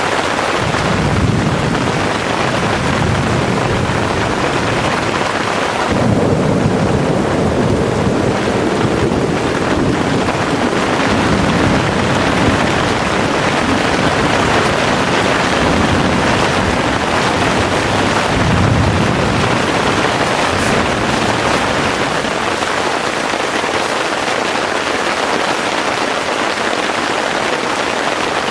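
Heavy rain pouring steadily, with thunder rumbling through it several times: once about a second in, longer from about six seconds, and again past the middle.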